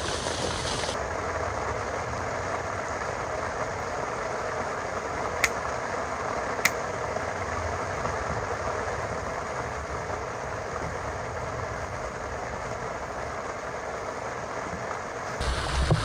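Heavy rain falling steadily, with two sharp clicks about a second apart near the middle.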